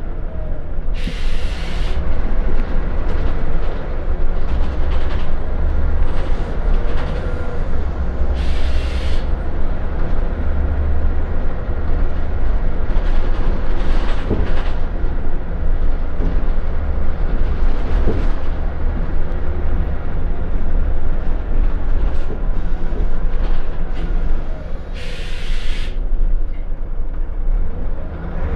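Scania L94UB Wright Solar single-deck bus heard from inside while under way: a steady low diesel rumble with road noise, broken three times by short hisses of air.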